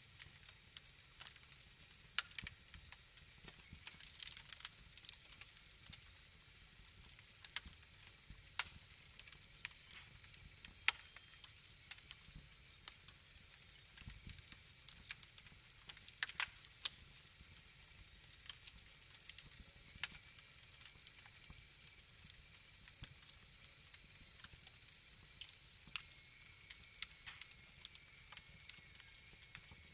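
Wood fire crackling, with irregular sharp snaps and pops over a faint steady hiss.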